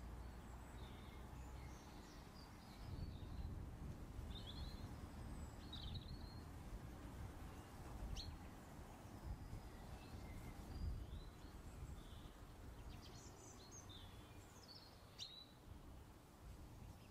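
Faint scattered bird chirps and short warbles over a low, steady background rumble, with a couple of sharp ticks.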